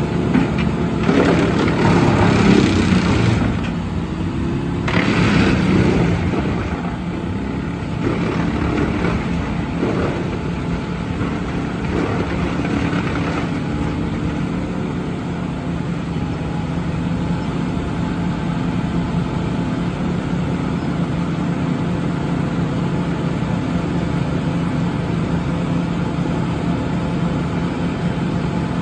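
Western Star heavy truck's diesel engine running with a steady drone. It swells louder twice in the first several seconds, then settles to an even run.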